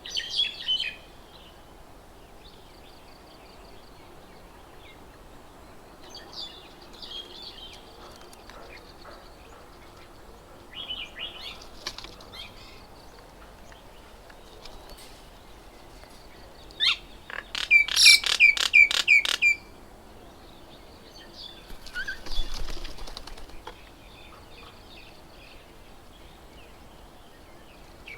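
Small birds chirping in short scattered bursts around a garden bird table. Near the middle comes a loud, even run of about seven sharp strokes lasting about two seconds, and a few seconds later a brief rustling flurry.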